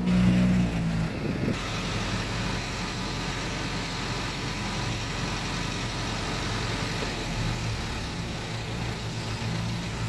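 Dump truck's diesel engine running steadily under way, a little louder in the first second.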